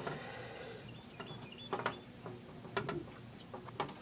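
Casement window crank being turned, its gears giving a run of irregular mechanical clicks and rattles, with the loudest clicks in the second half.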